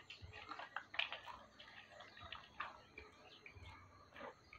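Two people crunching and chewing caramel popcorn, eating face-first from plastic bowls: faint, irregular small crunches and clicks, the sharpest about a second in.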